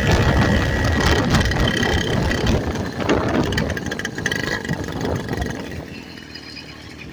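The Frankenbike's engine running through its new exhaust, growing steadily fainter over the last few seconds.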